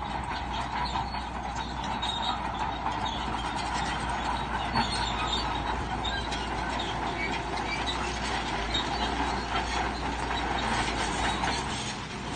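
Crawler bulldozer at work: the diesel engine running under steady load while the steel tracks squeal and clank.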